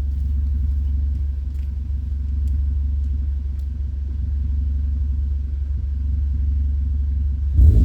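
Turbocharged car's aftermarket 63 mm exhaust, with an Etuners downpipe, a Joombra resonator and a Deikin muffler, idling with a steady low rumble. Near the end the throttle is blipped and the note suddenly gets louder.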